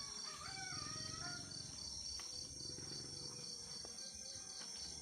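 Insects, crickets or similar, chirping in a steady high pulsing chorus, with a fainter continuous hiss higher up.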